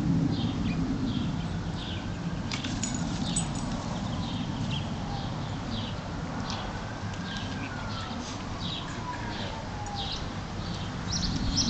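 Outdoor ambience: a small bird chirping short high notes about once or twice a second, over a low steady rumble of background noise.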